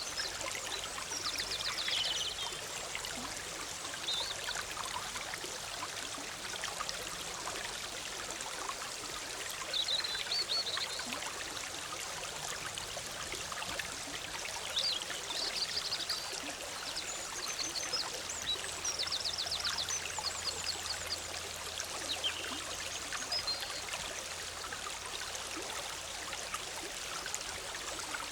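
Forest river running and bubbling steadily, with several short, high trills and chirps of songbirds breaking in now and then over the water.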